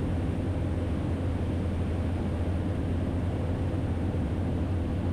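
Cessna 208 Caravan's single PT6A turboprop engine and propeller droning steadily, heard from inside the cabin as a constant low hum with a faint steady higher tone.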